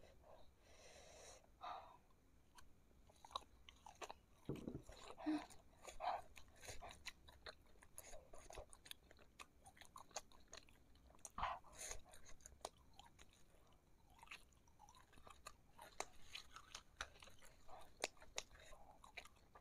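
Close-up chewing of a fried meatball (bakso goreng) coated in hot sauce: faint mouth sounds with many small clicks throughout.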